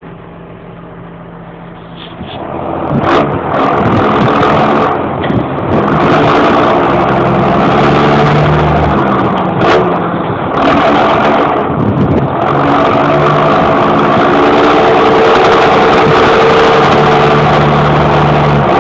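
John Deere 6820 tractor's six-cylinder diesel running without a muffler: idling for about two seconds, then revved up and held at higher revs with the pitch rising and falling. Two sharp cracks stand out, about three seconds in and again near ten seconds.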